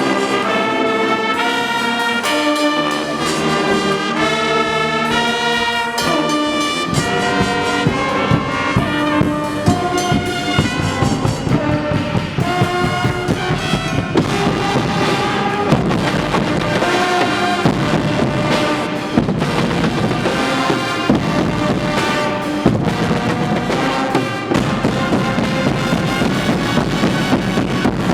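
Guggenmusik carnival band playing: trumpets and trombones carry a loud, brassy tune in held notes, with drums and percussion coming in about seven seconds in.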